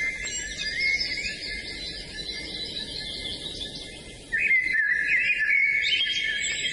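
Several songbirds singing and chirping over one another in a dense chorus of quick, high, sliding notes, growing louder about four seconds in.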